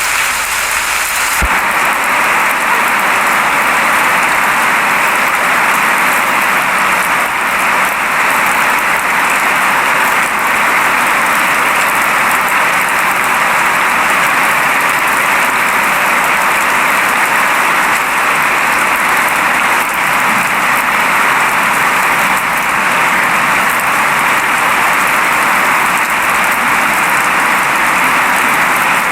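Steady rain falling, an even hiss with no single drops standing out; its tone shifts slightly about a second and a half in.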